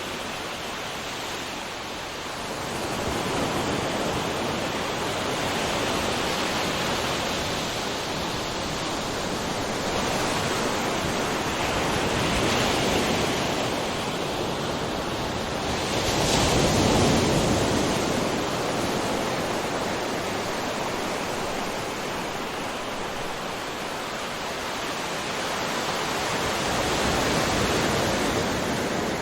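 Ocean surf: waves breaking and washing in one after another as a continuous rushing, rising and falling every few seconds, with the largest wave crashing a little past halfway.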